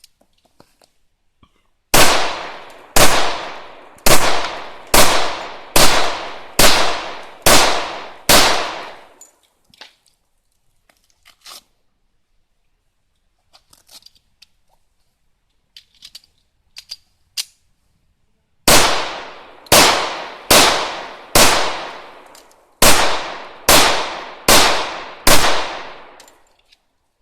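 Rock Island pistol fired in two strings of eight shots, about one shot a second, with a gap of roughly ten seconds between the strings where only faint clicks are heard, the magazine being changed.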